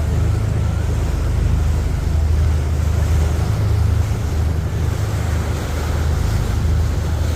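Tour boat under way: a steady low rumble with wind blowing across the microphone.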